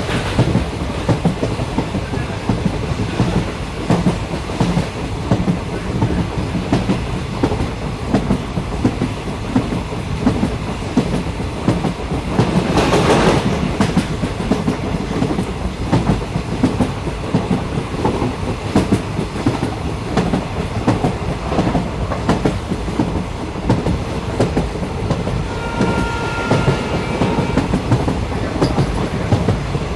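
Train running on the rails, heard from on board: a steady rumble of wheels and carriage with irregular clicking over the track. There is a brief louder rush a little before halfway, and a faint high whine near the end.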